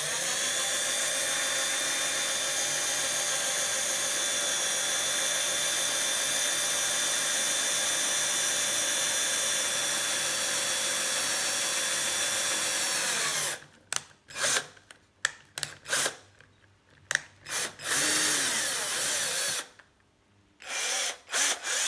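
Electric drill boring into a vintage bicycle quick-release skewer lever, running at a steady pitch for about thirteen seconds and then winding down. After that it is switched on and off in a string of short bursts.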